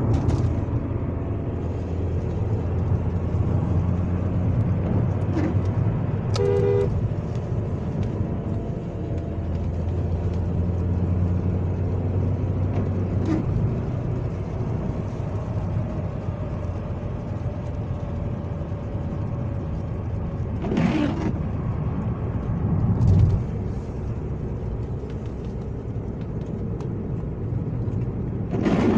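Alfa Romeo 916 Spider's 2.0 Twin Spark 16-valve four-cylinder engine running with a steady low hum that slowly shifts in pitch. A two-tone car horn sounds briefly about six seconds in, and a few short louder bursts of noise come later.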